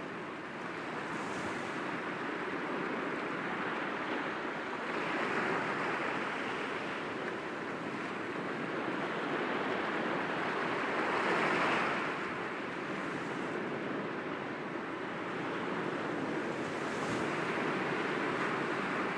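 Sea waves breaking gently against rocks: a steady wash of surf that swells about every six seconds, loudest around the middle.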